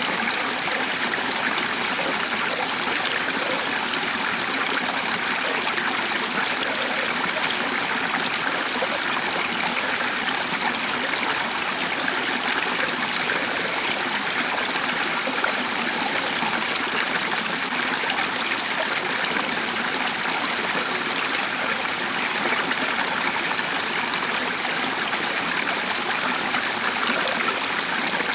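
A stream flowing steadily, an even rush of water that doesn't change.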